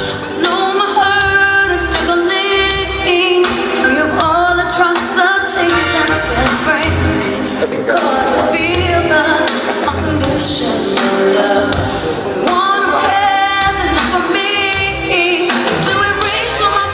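Live music: a woman sings lead with sustained, bending runs over band accompaniment.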